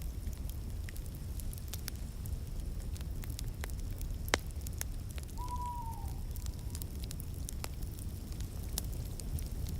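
Fireplace fire crackling with many small scattered pops over a low steady rumble, and one sharp, louder pop a little before halfway. Just after halfway comes a short tonal call that falls slightly in pitch.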